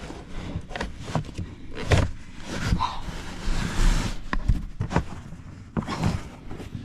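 Hand work inside a truck cab: a string of sharp knocks and clicks, with a longer scraping rustle about three to four seconds in.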